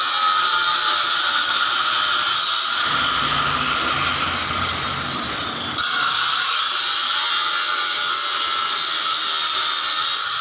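Steady, loud high-pitched mechanical hiss and whine from a running machine, changing in character briefly from about three to six seconds in.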